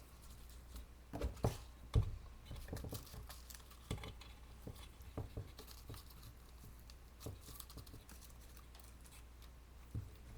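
Scattered small taps, clicks and rustles of craft materials being handled and pressed into place, busiest in the first few seconds, over a steady low hum.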